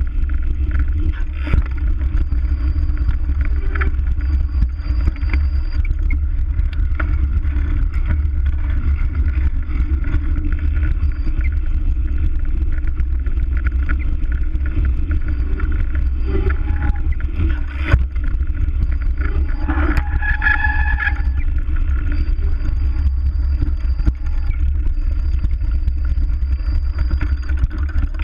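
Steady wind buffeting and rolling noise on a bike-mounted action camera during a ride, with a few sharp rattles and a short squeal about twenty seconds in.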